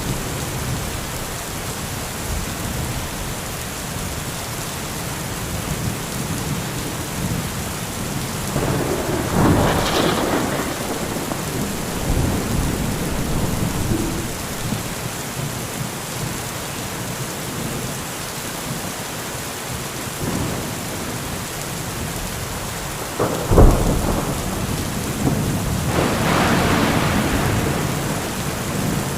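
Heavy rain falling steadily in a thunderstorm, with a crack and rumble of thunder about a third of the way in, then a sharp, loud thunderclap followed by a longer rolling rumble near the end.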